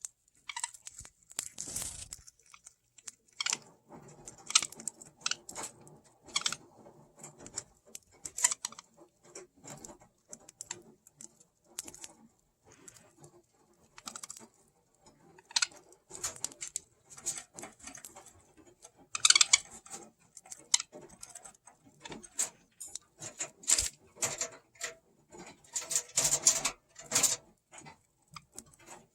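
Budgies nibbling carrot held in a hand: irregular sharp crunching clicks of their beaks biting the carrot, some in quick clusters.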